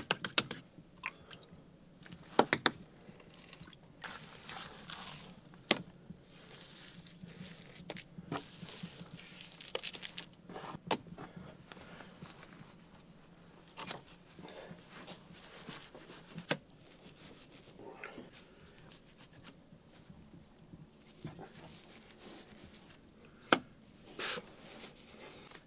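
Bricklaying sounds: bricks and wet clay mortar being handled, with scattered sharp knocks as bricks are set and softer scrapes and crunches between them.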